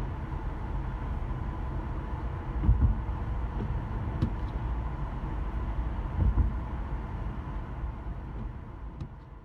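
Car being driven in slow city traffic, heard from inside: a steady low road and engine rumble with two louder low bumps. The sound fades out near the end.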